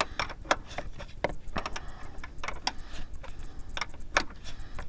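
Irregular metallic clicks and clinks of a wrench being worked on a nut a fraction of a turn at a time and repositioned after each stroke, about two or three clicks a second. The nut holds the climate control box to the firewall.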